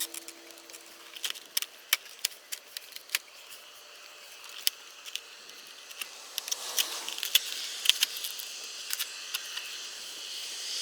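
Irregular sharp clicks and light rattles, with a hissy rustle growing louder from about six seconds in.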